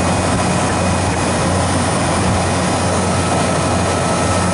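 Refrigeration condensing unit running steadily, a constant low hum with fan noise over it, while the system is being charged with refrigerant gas.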